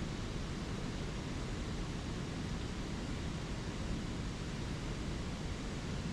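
Steady rush of a flowing spring creek, an even unbroken wash of water noise.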